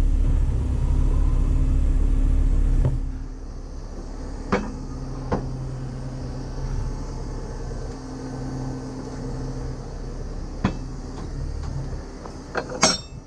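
Heavy truck engine running at raised revs, dropping back suddenly about three seconds in, then a few sharp metal clanks and knocks from the tow gear being worked, with a cluster of them near the end.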